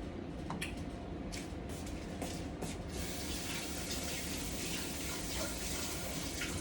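A few light clicks and knocks, then water running from a kitchen tap, starting about three seconds in.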